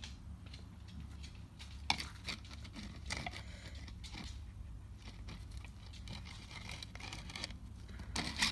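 Tissue paper being pulled apart and torn off a packing container, with a few sharp handling clicks and rustles over a low steady hum.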